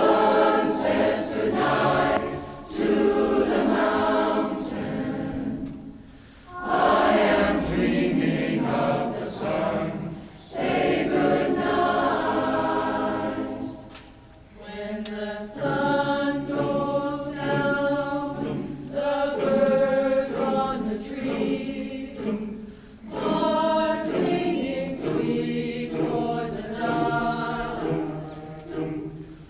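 Choir singing in harmony, sustained chords in phrases of a few seconds with short breaks between them.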